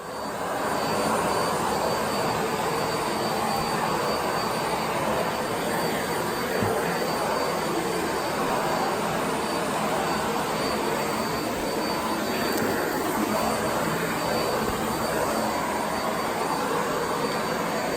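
Miele Blizzard CX1 bagless vacuum cleaner running with its floor brush: a steady rush of suction with a faint high whine from the motor.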